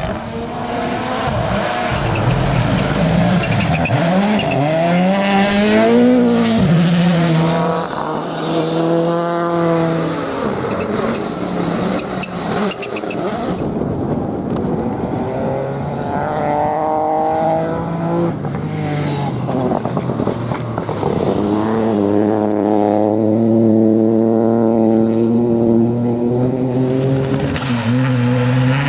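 Rally cars driven flat out on a stage, engines revving hard and rising and falling in pitch through gear changes and braking as they pass.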